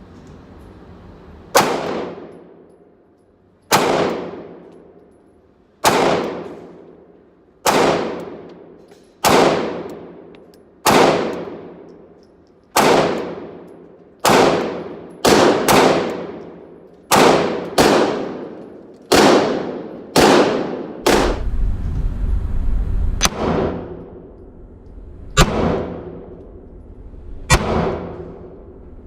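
9mm handgun fired in a slow, steady string of about seventeen single shots, one every one to two seconds, each shot ringing away before the next.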